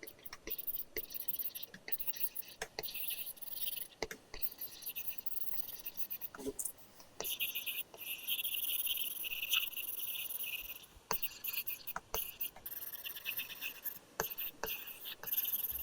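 Apple Pencil tip scratching across a paper-textured screen protector on an iPad in short and long drawing strokes, with sharp taps of the tip between strokes. The longest strokes come in the middle of the stretch.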